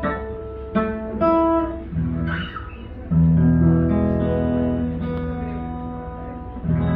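Acoustic guitar playing a song's introduction: a few single picked notes, then strummed chords that ring on.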